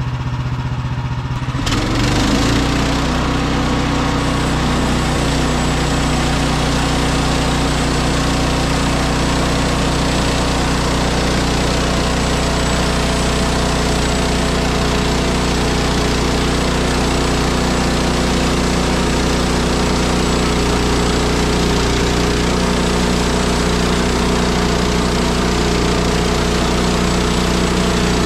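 Woodland Mills HM130MAX portable band sawmill running: its gas engine comes up to speed about two seconds in, then runs steadily with the band blade sawing through a spruce log.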